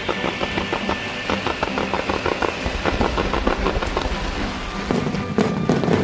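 Aerial fireworks crackling in rapid runs of sharp pops, with heavier bursts near the end, over music.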